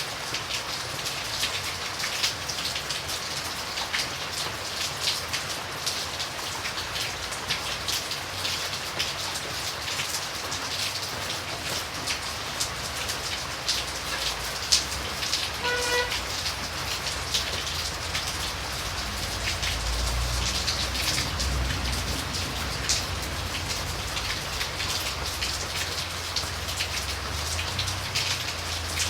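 Steady rain with many individual drops pattering close by. A low rumble swells up in the second half, and a brief faint pitched tone sounds about halfway through.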